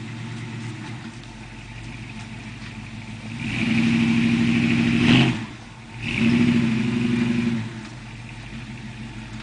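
Pickup truck engine running, revved up and held twice for about two seconds each, first a few seconds in and again shortly after.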